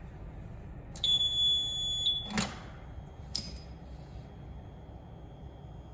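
Tohatsu outboard's warning buzzer giving one steady high beep of about a second, followed by two sharp clicks.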